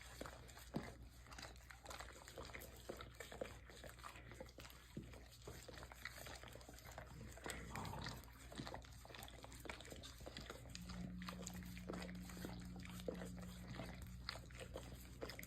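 Two dogs, one a beagle, licking each other: faint, quick wet licks and smacks coming irregularly throughout.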